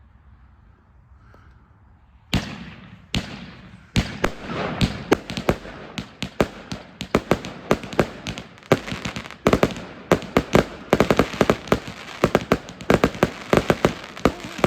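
Four 100-shot Master Babe fireworks cakes going off together: two single reports about two and a half and three seconds in, then a dense, rapid run of shots that keeps going.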